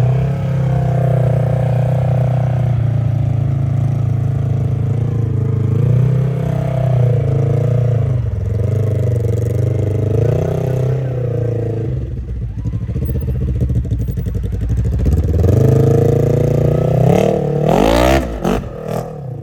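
Side-by-side UTV engine running under load with a wavering pitch as the throttle works, then revving hard and rising sharply about 17 seconds in.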